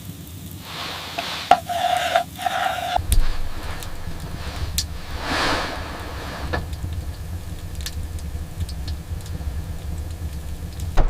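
Blizzard wind blowing, with a steady low rumble setting in about three seconds in and gusts of hiss over it. Before that comes a short pitched sound.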